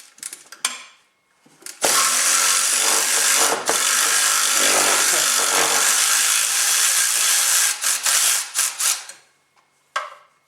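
Cordless power tool running on a socket and extension, loosening an exhaust manifold fastener on a HMMWV engine: a few clicks, then a steady run of about seven seconds with a short break near the start.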